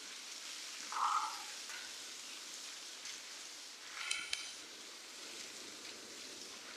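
Steady rain falling, an even hiss. Two brief animal calls cut through it: a louder one about a second in and a buzzy one about four seconds in.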